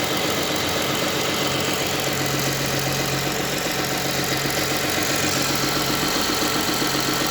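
Toyota Camry 40's 2GR-FE 3.5-litre V6 engine running steadily, with a low hum that grows stronger about a second and a half in. The owner hears an unexplained hum or knock in it and cannot tell which it is.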